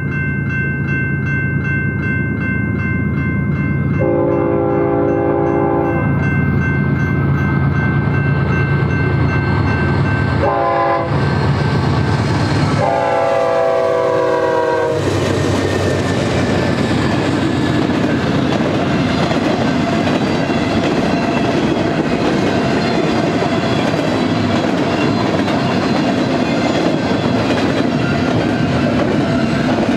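A grade-crossing bell dings rapidly while a GE ES44DC diesel locomotive approaches. Its horn gives a long blast about four seconds in, then a short blast and another long blast between about eleven and fifteen seconds, over the drone of its engine. The locomotive then passes and the double-stack intermodal cars roll by with steady wheel-on-rail rumble and clickety-clack.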